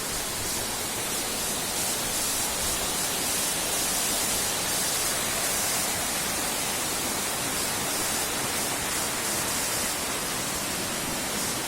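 Waterfall in full flow: a steady, even rush of falling water with no breaks.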